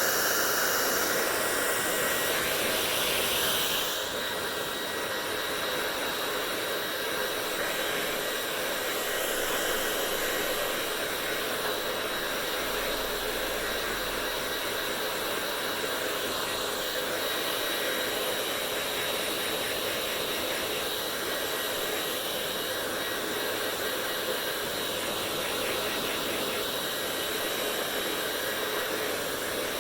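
Hair dryer blowing steadily, a constant rush of air with a faint whine in it. About four seconds in its sound shifts and drops a little, then holds steady.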